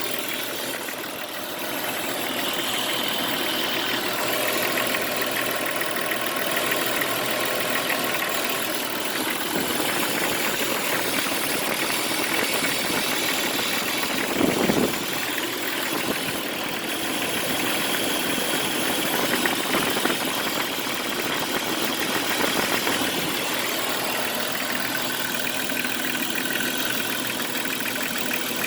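Jeep Cherokee XJ engine idling, with a rattle or knock and a steady hiss that the owner cannot place. About halfway through there is one brief louder knock.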